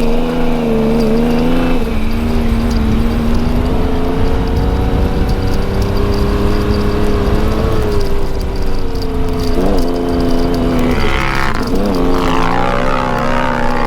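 Turbocharged Yamaha YXZ three-cylinder engine running hard at high revs, its pitch dipping briefly twice, about ten and twelve seconds in, as it shifts or lets off, with a high whine that rises and falls near the end.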